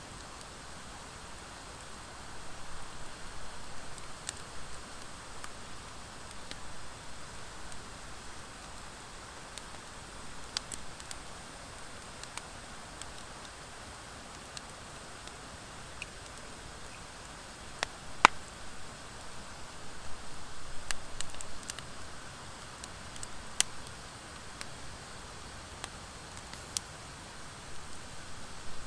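Wood fire of driftwood and dry hardwood logs burning with a steady soft hiss, broken by a few sharp, scattered crackling pops, one louder pop about two-thirds of the way through.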